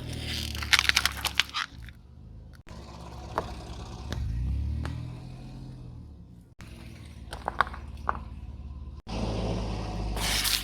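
A car's tyre rolling slowly over crunchy objects, crushing them with clusters of sharp cracks and crunches over the low hum of the engine. The sound comes in several short takes that cut abruptly from one to the next.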